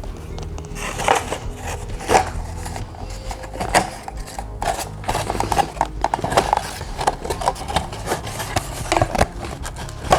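Cardboard pieces being handled and pressed together, an irregular run of light knocks, taps and rubbing over a steady low hum.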